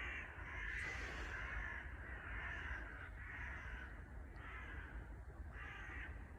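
A flock of crows cawing, many harsh calls overlapping and repeating without pause. It is the agitated alarm calling of crows mobbing a raptor hidden in the wood.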